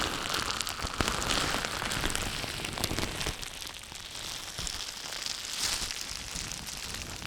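Close-miked ASMR trigger sounds: a dense crackling and scratching made up of many small clicks. It grows quieter after about three seconds.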